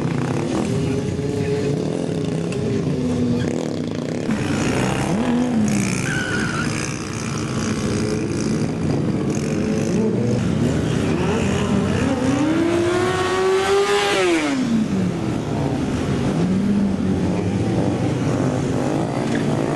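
Small mini bike engines revving, their pitch rising and falling. Near the end comes one long rev that climbs for about two seconds and then drops away quickly.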